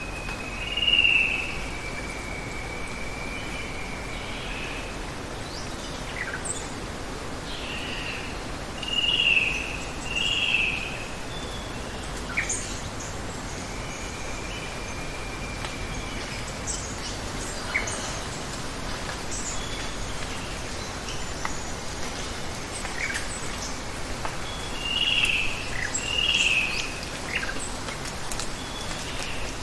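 Steady rush of running water with birds calling over it: loud, short bending calls repeated in pairs, two long steady whistles, and scattered high chirps.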